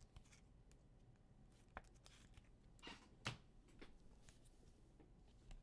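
Near silence broken by a few faint rustles and clicks of trading cards being handled, the clearest about three seconds in.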